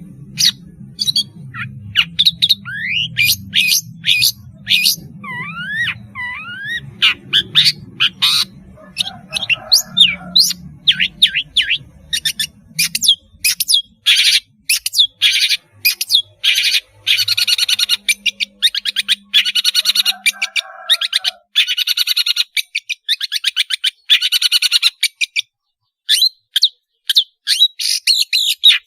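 Long-tailed shrike (pentet/cendet) singing: fast runs of harsh, sharp chirps and chattering trills, with a few quick whistled glides early on. A faint low hum lies under the first half.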